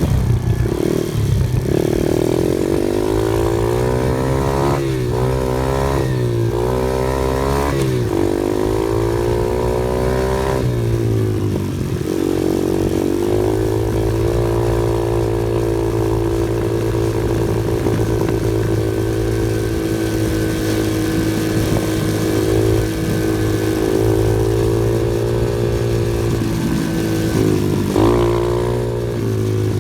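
Off-road vehicle engine running while driving. Its revs rise and fall repeatedly over the first dozen seconds, then hold steady for most of the rest, with a brief change near the end.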